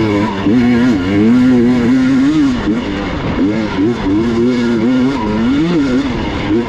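Gas Gas EX 300 two-stroke enduro motorcycle engine under way, its revs rising and falling again and again as the throttle is worked and blipped.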